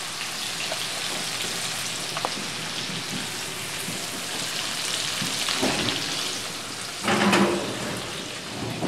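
Halved fingerling potatoes sizzling in hot oil and butter in a skillet, a steady frying hiss. About seven seconds in there is a brief louder scrape.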